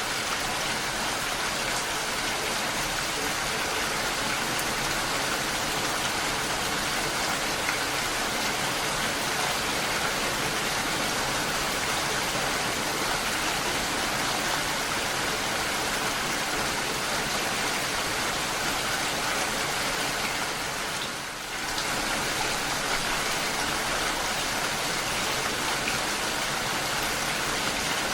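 Steady, heavy rainfall: an even hiss of falling rain and drops on surfaces, with no thunder. About three quarters of the way through, the sound dips briefly for under a second, then carries on as before.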